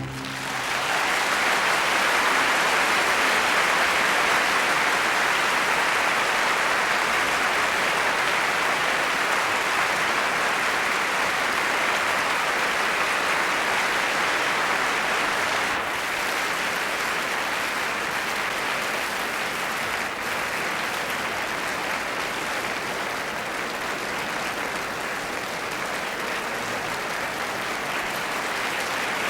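Concert hall audience applauding, steady and sustained, starting just as the orchestra's final chord stops.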